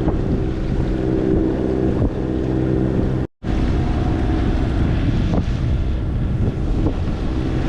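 A sailboat's inboard diesel engine running steadily under way, with wind on the microphone and the rush of water along the hull. The sound cuts out for an instant a little under halfway through, and after that the engine sits lower under the wind and water until near the end.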